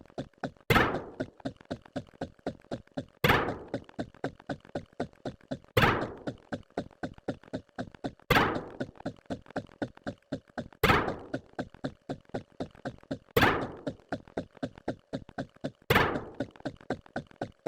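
A repeating sound-effect loop: a loud thunk about every two and a half seconds, with quick clicks, about eight a second, between the thunks.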